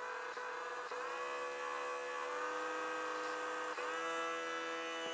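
Small electric motor of a HobbyZone Champ RC plane spinning its propeller: a steady buzzing whine. It steps up in pitch about a second in and again near four seconds as the throttle is raised.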